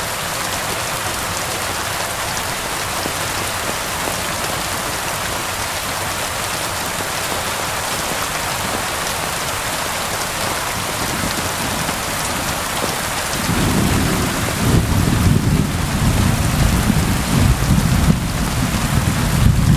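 Steady, heavy rain falling, with a long low rumble of thunder setting in about two-thirds of the way through and rolling on to the end.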